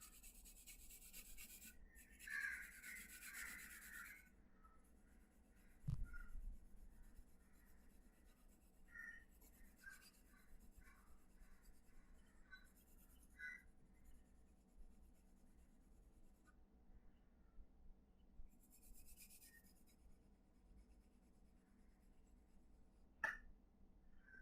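Faint scratching and rubbing of shading strokes on paper, strongest in the first few seconds, with scattered light ticks, a soft knock about six seconds in and a short sharp tick near the end.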